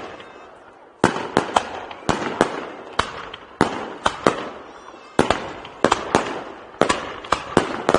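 Ground-launched fireworks firing a rapid, irregular volley of sharp bangs, some in quick pairs, each trailing off in echo.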